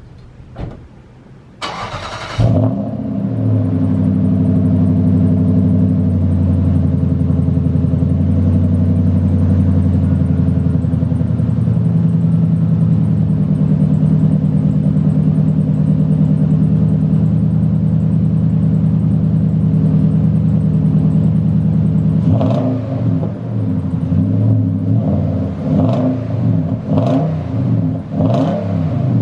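The 2008 Nissan Titan's 5.6-litre V8 is cranked by its starter and catches about two seconds in, then idles steadily through an exhaust with a single Aero resonator and no mufflers. From about 22 seconds in come about five quick throttle blips.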